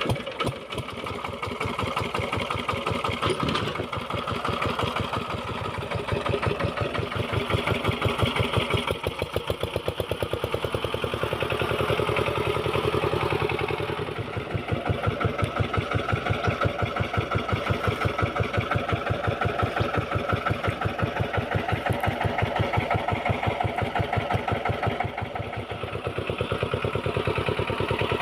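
Kamco power tiller's single-cylinder diesel engine running in a fast, even beat while towing a car, its loudness rising and dipping a few times as the load changes.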